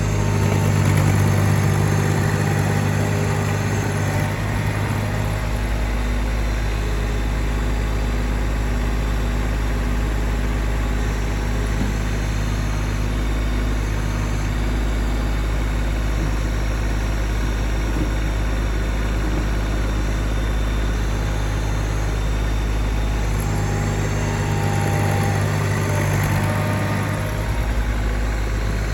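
A vehicle engine running steadily at a loud, even level. Its low note changes in the first few seconds and again a few seconds before the end, as if the engine is worked harder and then eased off.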